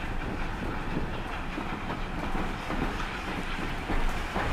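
Railway train running along the track with a steady rumble, its wheels knocking over the rails with a few sharp clicks near the end.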